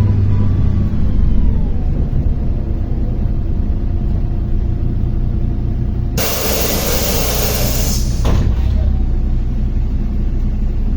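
Inside a MAZ-103 city bus: steady engine and drivetrain rumble with a whine falling in pitch as the bus slows, then about six seconds in a loud hiss of compressed air lasting about two seconds, ending in a click, from the bus's pneumatic system as it comes to a stop.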